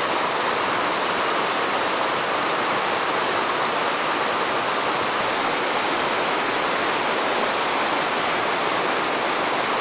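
Rushing river water, a steady even roar with no change in level.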